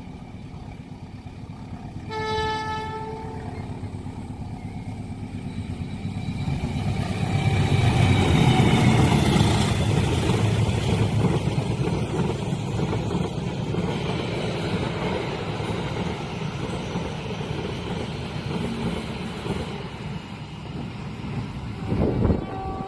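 Train horn sounds one short blast, then the train approaches and passes with a loud rumble of wheels on rails. The rumble builds to its peak in the middle and slowly fades.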